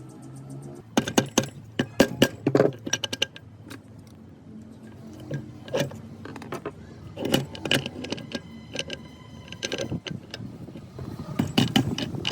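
Metal parts of a rusty concrete mixer gearbox clinking and clanking as they are handled, in irregular clusters of sharp knocks. A brief ringing metallic tone comes about two-thirds of the way in.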